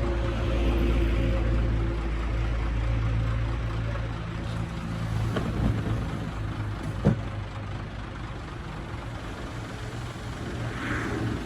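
Diesel engine of heavy earthmoving machinery running steadily, heavier for the first four seconds or so and then easing off. A sharp metallic knock comes about seven seconds in, with a fainter one shortly before it.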